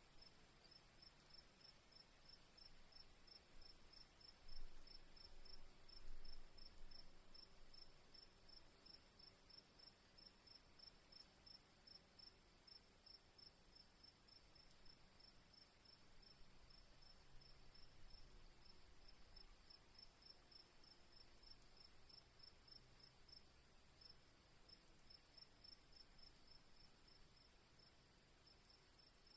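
Crickets, faint: one steady high-pitched trill with a rhythmic chirp pulsing about two to three times a second over it. Two brief low bumps come about four and six seconds in.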